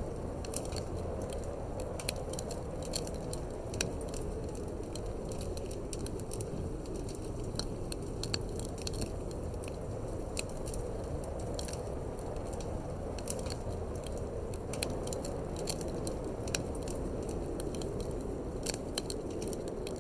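Wood fire crackling in a fireplace, with irregular sharp pops and snaps, over a steady low rush of wind.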